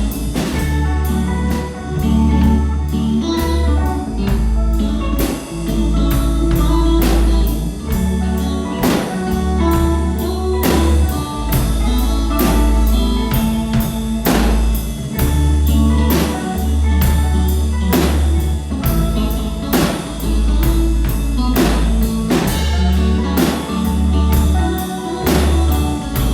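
Rock band music: a drum kit keeps a steady beat over long, sustained bass notes and held pitched instrument notes.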